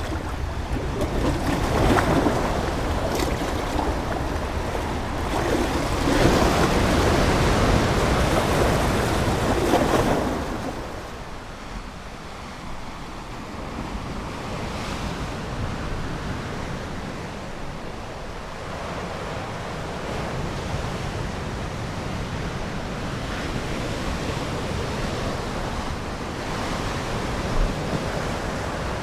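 Ocean waves surging and washing on the shore: louder swells in the first ten seconds or so, then a softer, steady wash.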